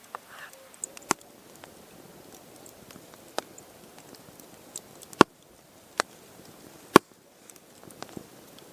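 Irregular sharp clicks and cracks, with louder ones about one, three, five, six and seven seconds in, over a faint steady hiss.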